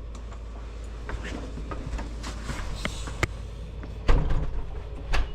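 A door being handled and shut, with scattered clicks and knocks and two louder thumps, one about four seconds in and one near the end.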